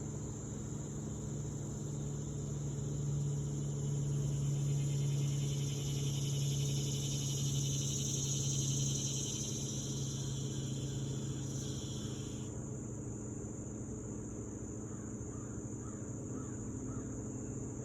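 Outdoor insect chorus: a steady high-pitched chirring that runs throughout, joined by a second buzzing layer that cuts off abruptly about twelve seconds in, over a low steady hum.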